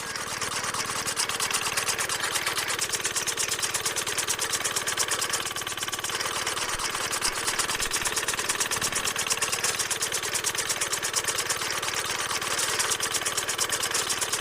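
Small electric motor of a DIY model machine running steadily with a fast, even rattle.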